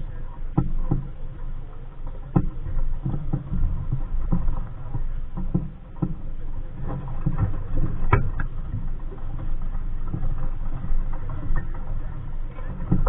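Small sailboat under way: water slapping and knocking irregularly against the hull over a low, steady rumble.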